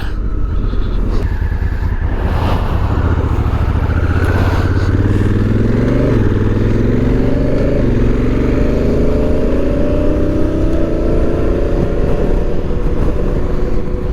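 2017 Honda Africa Twin's 998 cc parallel-twin engine running at road speed, with wind rushing past. The engine note climbs as the bike gathers speed from about halfway through, then holds steady.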